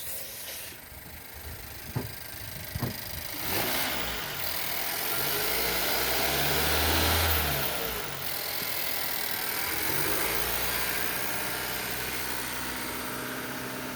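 Car engine hooked up by jumper cables to a car with a flat battery, revved up and eased back down, then a smaller rev, before settling into a steady idle; raising the revs helps charge the flat battery. Two light knocks come about two seconds in, before the revving.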